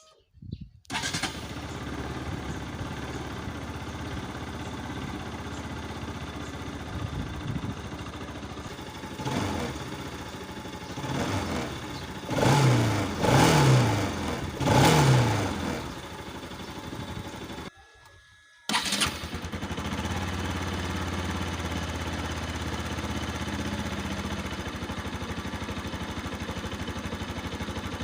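Bajaj Pulsar RS200 single-cylinder engine starting from cold about a second in and settling into an idle, then given a few soft throttle blips, three short sharp revs in the middle. After a brief break it idles steadily again.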